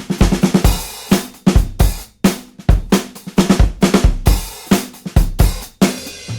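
Background music: a rock drum kit playing a steady beat of kick, snare, hi-hat and cymbal hits.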